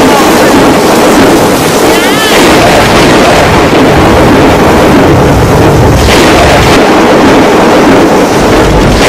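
Loud, steady noise of a heavy rainstorm, with wind buffeting the microphone.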